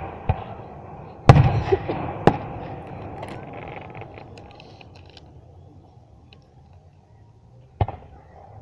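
Aerial firework shells bursting: a small pop at the start, a loud boom about a second in that trails off in a long echoing rumble, another bang a second later, then faint crackling and one more boom near the end.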